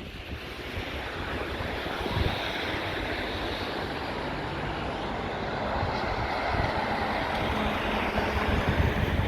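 Wind blowing across a phone's microphone on an exposed seafront, a steady roar that grows slightly louder; a faint steady hum joins near the end.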